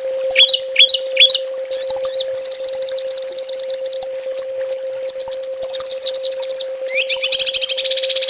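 Small songbird singing rapid, high 'tembakan' trills: a few quick down-slurred notes, then a fast rattling trill, a run of repeated notes, and another fast trill starting near the end. A steady low tone runs underneath.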